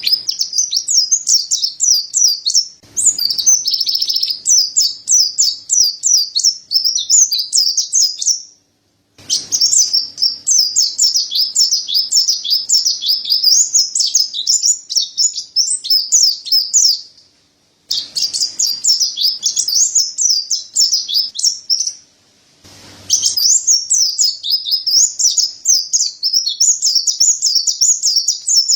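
Mountain white-eye (pleci dada putih, Montanus) singing a loud, fast, high-pitched twittering song in long runs of several seconds, broken by short pauses.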